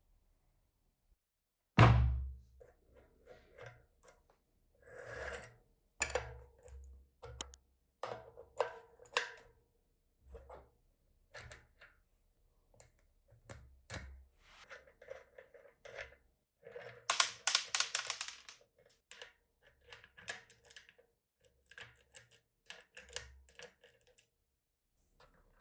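Hand-work sounds of tools and metal bicycle parts being handled: a sharp knock about two seconds in, then irregular clicks, clinks and short scrapes, with a longer rasping stretch a little past the middle.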